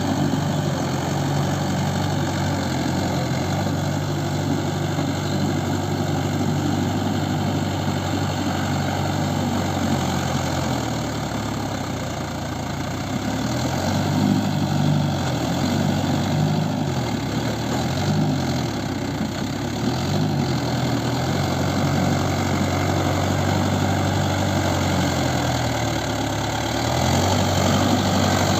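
Mahindra Yuvo 575 4WD tractor's four-cylinder diesel engine running steadily. In the middle its pitch dips and rises several times as the engine speed changes.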